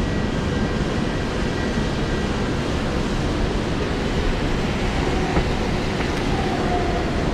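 Heavy pouring rain making a steady, even rush of noise, with a low rumble of city street traffic underneath.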